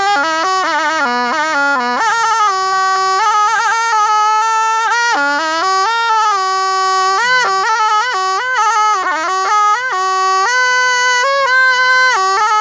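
Thai pi, a reed oboe, playing a solo melody without breaks. It moves between held notes with quick trills, shakes and pitch bends.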